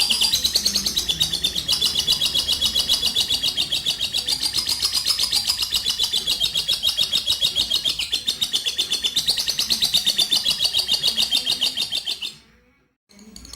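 Lovebird's long ngekek: a continuous, high-pitched chattering trill of fast repeated notes, about five a second, held unbroken for some twelve seconds. It breaks off near the end and starts again a moment later.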